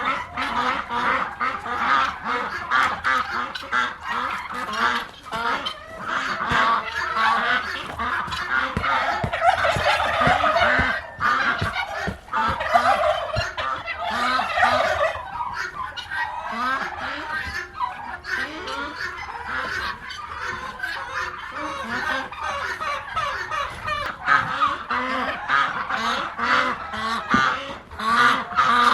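A mixed flock of farmyard poultry calling all at once: turkeys gobbling, with honking calls from the ducks and guinea fowl, and chickens among them. Short knocks and thumps come again and again through the calls.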